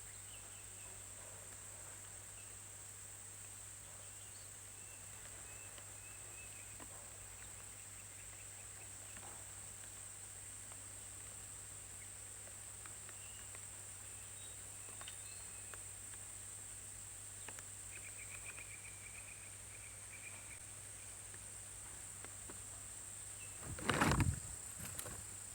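Steady high-pitched drone of insects, with faint short chirps now and then, and a single loud knock near the end.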